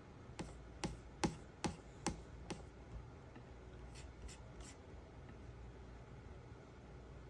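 A run of seven sharp, evenly spaced clicks, about two and a half a second, followed about a second later by three fainter clicks.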